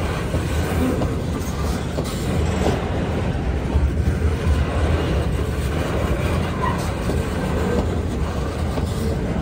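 Freight train cars rolling past on the rails: a steady low rumble with occasional faint clicks from the wheels.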